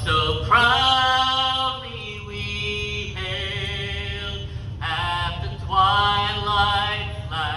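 A solo voice singing unaccompanied, long held notes with vibrato in separate phrases, over a steady low rumble.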